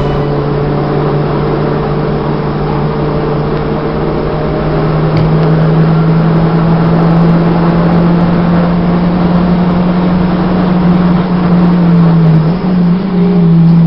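Racing car's engine heard from inside the cabin, running hard on track with a steady drone; the note rises slightly about five seconds in and dips briefly near the end.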